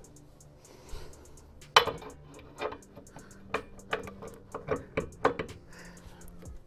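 A string of sharp clinks and knocks of hard objects striking each other, irregularly spaced, the loudest about two seconds in, over faint background music.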